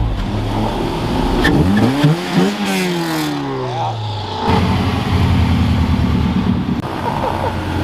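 Car engines revving and driving off, their pitch climbing and falling in turn, then a loud steady exhaust rumble for about two seconds from about halfway through.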